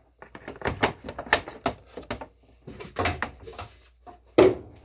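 Handling noise: a run of light knocks, clicks and rustles as things are moved about, with one louder thump about four and a half seconds in.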